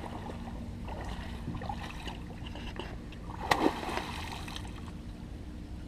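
Water splashing once, sharply, about three and a half seconds in, as a hooked blue catfish thrashes at the surface beside the boat; a steady low hum and light water noise run underneath.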